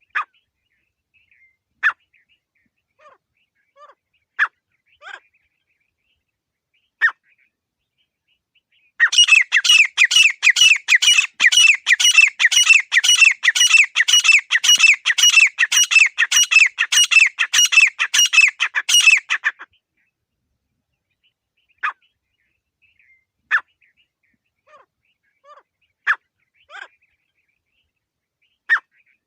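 Grey francolin calling: sharp single call notes a second or two apart, then a loud, rapid run of repeated calls lasting about ten seconds that stops suddenly, then scattered single notes again.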